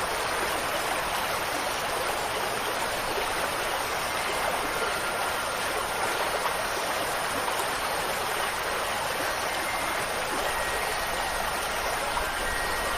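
Steady rushing water, like a stream or a small waterfall, an even hiss at a constant level throughout.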